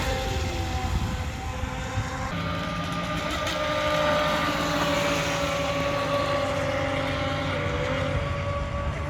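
Radio-controlled electric boats running on the water, their motors making a steady whine over a low rumble. The whine changes about two seconds in and dips briefly near the end as the throttle varies.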